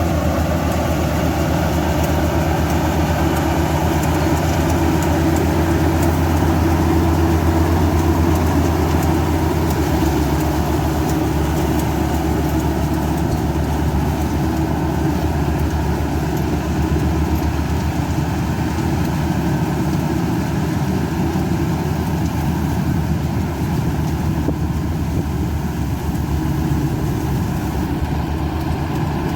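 Combine harvester engine running steadily as the machine harvests rice in a wet paddy. Its low drone eases slightly about ten seconds in.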